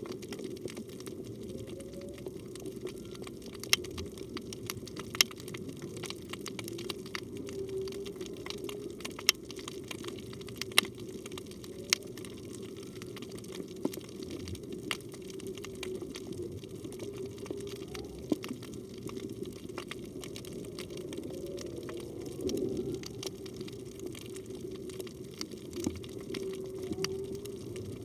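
Underwater whale song, which the recordist takes for a humpback whale: long wavering moans held around one low pitch, with short upward sweeps now and then. Sharp clicks are scattered over a steady wash of water noise.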